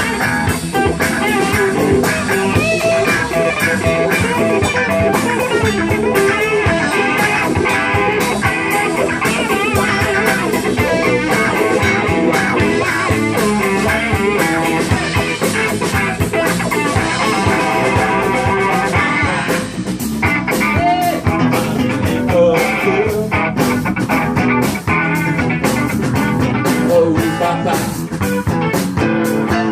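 Live blues-rock band playing an instrumental passage with electric guitar to the fore. After a brief dip about twenty seconds in, a steady drum beat stands out.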